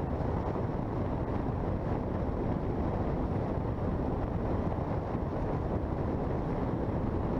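Steady rushing wind noise on the microphone out on open water in high winds, with no engine tone standing out.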